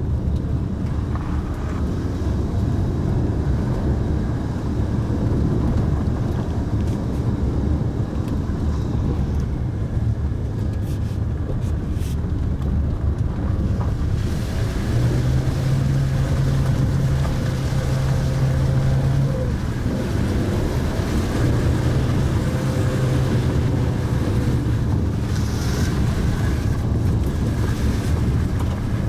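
Mitsubishi Pajero Mini's small engine running while driving, with steady tyre and wind noise; the engine note climbs a little about halfway through, holds, dips and climbs again, and a few light clicks come near the middle.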